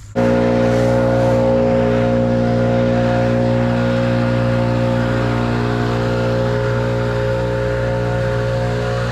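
An engine running steadily at a constant high speed, cutting in suddenly at the start and holding an unchanging pitch throughout.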